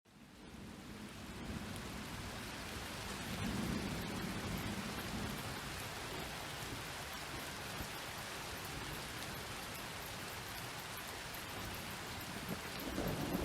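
Steady rain with low, rolling thunder rumbling about four seconds in and building again near the end. The rain fades in from a brief dropout at the start.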